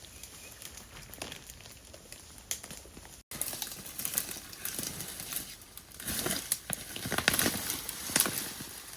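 Dry leaf litter and brush crackling and rustling in irregular snaps and crinkles, getting louder and busier from about three seconds in.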